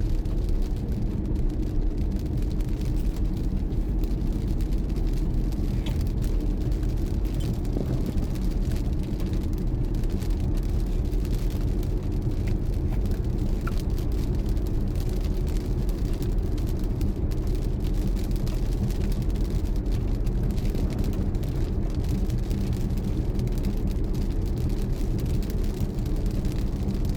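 A car driving: steady engine and road noise, even throughout.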